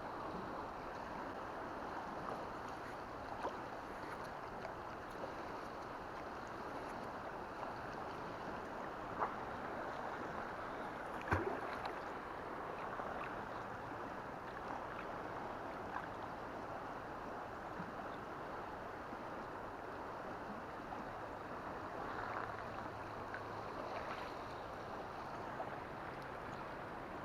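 Steady rush of flowing river water, with a single sharp knock about eleven seconds in.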